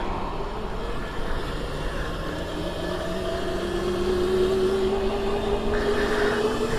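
Stock Razor electric dirt bike's motor whining as it is ridden, its pitch rising slowly as the bike gathers speed, over a steady rush of wind and road noise.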